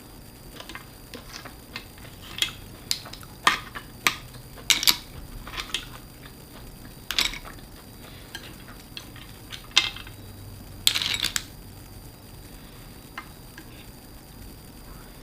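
Tableware clinking: utensils and food tapping and scraping against dishes during a meal. The sharp clicks come scattered and irregular, with a short flurry of clatter about two-thirds of the way through.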